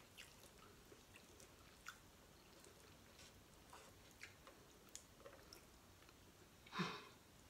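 Faint close-up chewing of seafood, with small wet clicks and smacks scattered throughout, and a short hum from the eater near the end.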